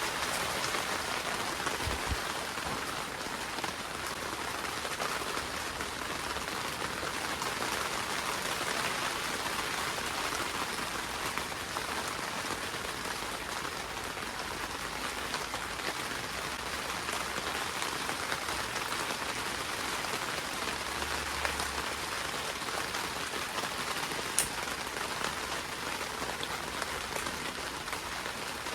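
Steady rain pattering on a greenhouse roof, heard from inside, with one sharper drop tick near the end.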